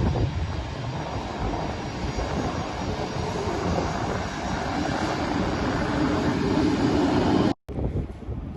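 Fixed-wing airplane's engines running with a steady rush and a droning tone that grows stronger in the second half. Near the end the sound cuts off abruptly, followed by quieter wind noise on the microphone.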